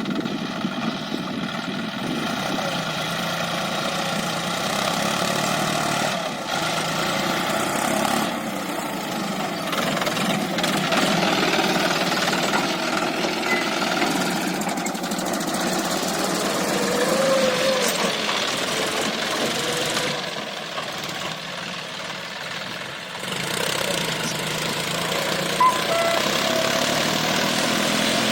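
A John Deere 5050E tractor's three-cylinder diesel engine running steadily while working a field. It drops somewhat quieter for a few seconds past the middle, then comes back up.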